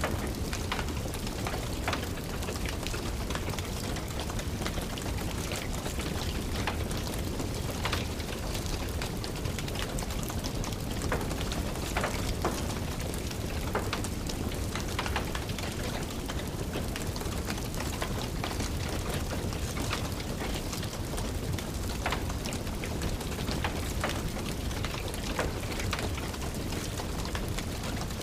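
Steady rain falling, with scattered irregular crackles and pops of a wood fire burning in a fireplace.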